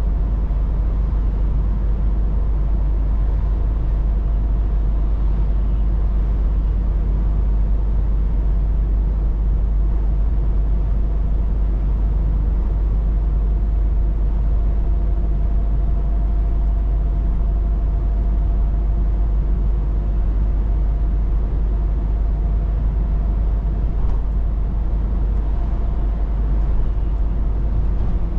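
Scania S 500 truck driving at a steady speed: a constant low engine and drivetrain rumble with road noise, and faint steady whines above it.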